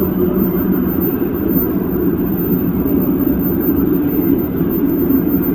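Daejeon Metro Line 1 train running at speed: a steady low rumble of wheels and traction equipment.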